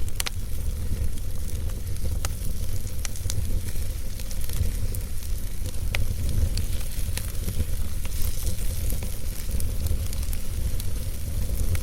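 Wood fire burning in a fireplace: irregular sharp crackles and pops over a steady low rumble and soft hiss.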